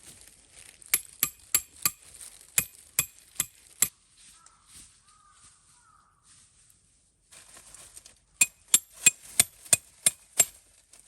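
Two bouts of sharp, evenly paced knocks, about three a second, each with a slight ringing edge, with a pause of a few seconds between the bouts.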